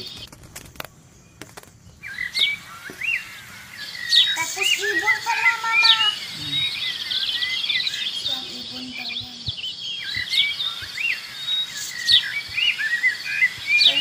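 Small birds chirping and twittering over and over in short calls that rise and fall. There are a few sharp clicks in the first two seconds.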